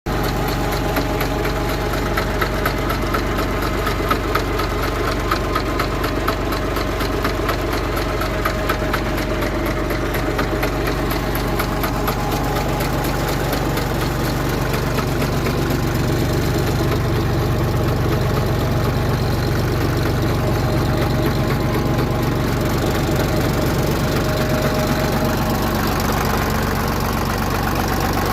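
A vehicle engine running steadily, with a fast, even pulsing that is clearest over roughly the first twelve seconds.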